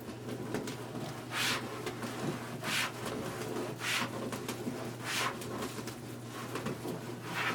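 Deco mesh and burlap ruffles rustling as they are worked into a wire wreath form: five short crinkly brushes about a second apart, over a steady low hum.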